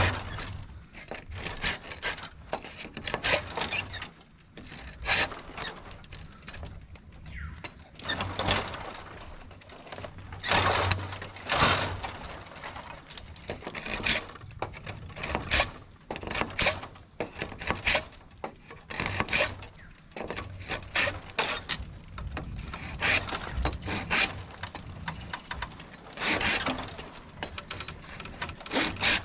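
Irregular knocks, cracks and scraping of bamboo being worked and cleared by hand, between bouts of sawing. A faint steady high-pitched buzz sits under the first part.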